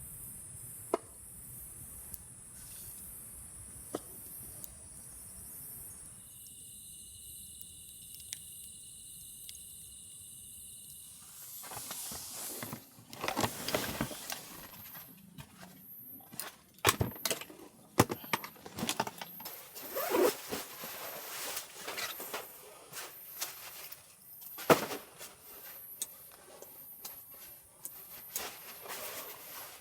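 Insects chirring in a steady high drone, with a few faint clicks. From about twelve seconds in, a run of irregular clicks, knocks and rustles of handling and movement takes over as the loudest sound.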